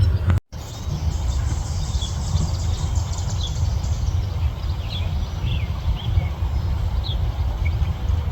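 Scattered short bird chirps over a steady low rumble, with the sound cutting out completely for a moment about half a second in.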